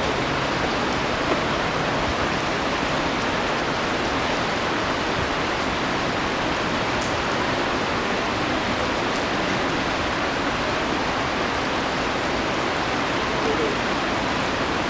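Steady rush of water flowing in a shallow stream, an even hiss with no distinct events.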